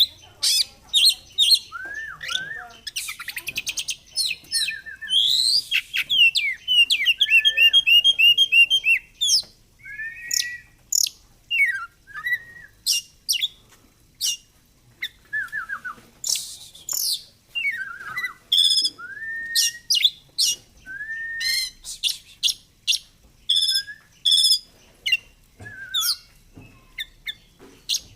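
Oriental magpie-robin singing a varied song of sharp chirps, rapid trills and rattles, broken by short whistled slurs.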